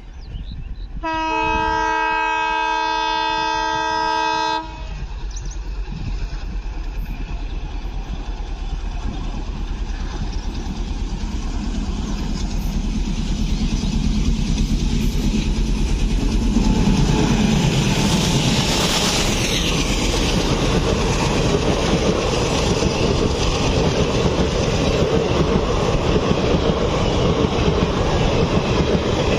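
A diesel locomotive hauling a passenger express sounds one long horn blast of about four seconds, a chord of several notes. Its engine then grows steadily louder as it approaches at speed and drops in pitch as it passes, about two-thirds of the way in. The coaches follow, their wheels running over the rails with a fast, even rhythm.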